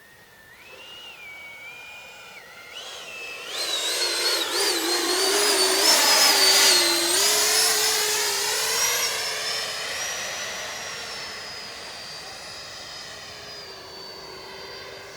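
Freewing J-10's 90 mm electric ducted fan whining as the RC jet flies past. It swells loud about four seconds in, its pitch shifting as it passes, then fades away.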